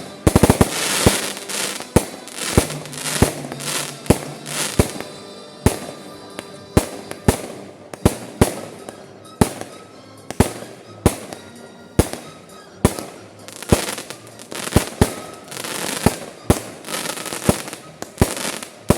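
Fireworks display: aerial shells bursting in a run of sharp bangs, roughly two a second at uneven spacing, with a quick rattling volley right at the start.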